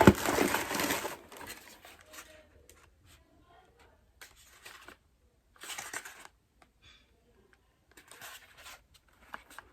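A parcel of skincare products being torn open and unwrapped: a loud burst of tearing and crinkling packaging in the first second, then short rustles every couple of seconds as it is handled.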